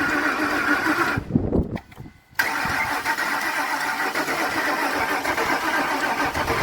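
Ford Explorer 4.6 L V8 being cranked over by the starter without firing. The crank sensor wire is deliberately left off so the engine turns only to build oil pressure. Two cranking spells with a pause of about a second between them.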